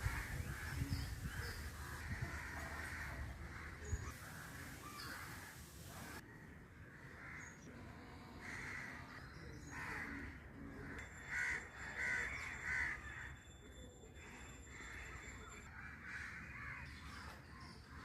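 Crows cawing over and over, with two louder caws a little past the middle. A low rumble runs under the first few seconds.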